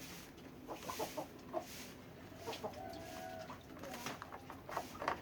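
Chickens clucking, with short scattered calls and one longer drawn-out call about three seconds in.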